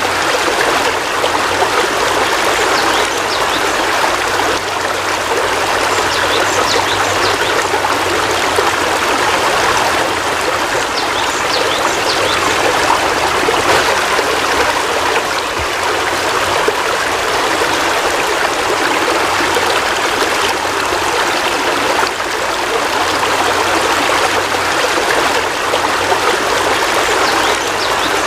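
Heavy rain falling steadily, a dense even hiss of water with scattered small drip splashes, over a faint low hum that comes and goes.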